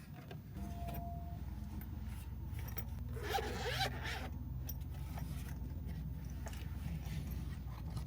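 A short scraping rasp lasting about a second, starting about three seconds in, over a steady low rumble, with a few faint clicks.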